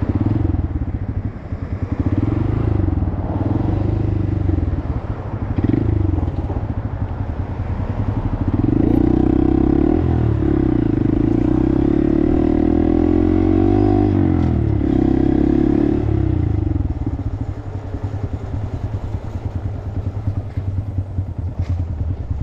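Honda Monkey 125's single-cylinder four-stroke engine running while ridden at low speed, its pitch rising and falling, louder through the middle stretch.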